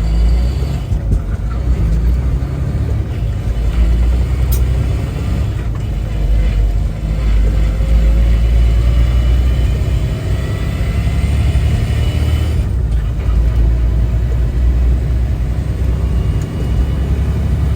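Semi truck running down the road, heard from inside the cab: a steady low engine and road drone, with faint whines rising slowly in pitch around the middle.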